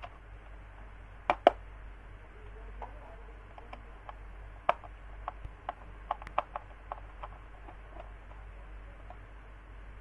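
Handling noise: scattered sharp clicks and knocks, two loud ones close together about a second and a half in, another near the middle, then a run of lighter taps.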